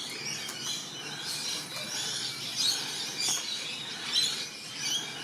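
Wild birds chirping and calling, with many short high calls scattered throughout over a steady background hiss.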